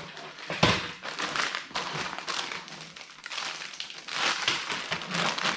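LEGO packaging being handled: rustling of plastic bags and cardboard with light taps and a sharper knock about half a second in.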